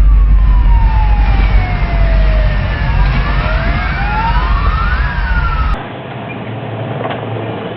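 Several sirens wail together, their pitches slowly falling and rising and crossing each other, over a heavy low rumble. About six seconds in, the sound cuts abruptly to a quieter steady background.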